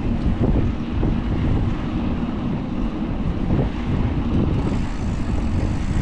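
Wind buffeting the microphone of a camera on a moving bicycle, a gusty low rumble, with street traffic mixed in.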